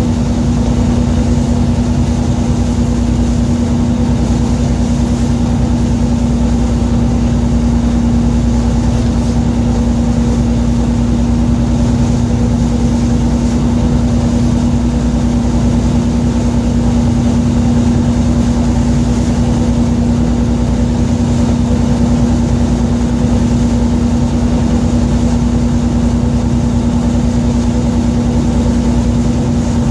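Fishing boat's engine running at a steady speed, a constant low hum and rumble heard on board.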